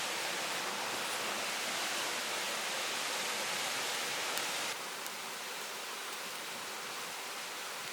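Mountain stream water rushing steadily over rocks, as a continuous even rush; it drops a little in level about two-thirds of the way through.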